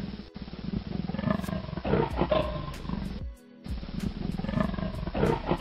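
Cheetah vocal calls, repeated, over background music, with a brief break about three and a half seconds in.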